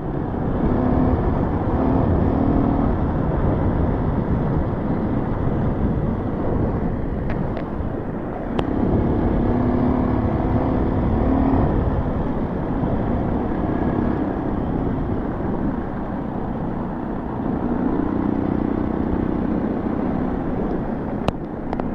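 Small single-cylinder dual-sport motorcycle engine running under way, its note rising and falling every few seconds with the throttle, over a steady low wind rumble on the helmet microphone.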